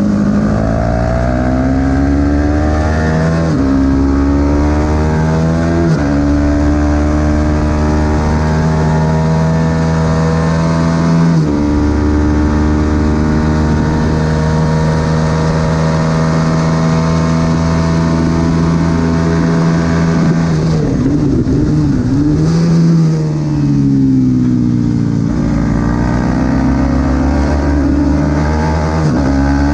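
Supersport 300 racing motorcycle engine at high revs under hard acceleration. The pitch climbs and then drops sharply at each of three upshifts in the first dozen seconds, then holds high and steady. About two-thirds through, the revs fall and waver through braking and downshifts, then climb again as the bike accelerates.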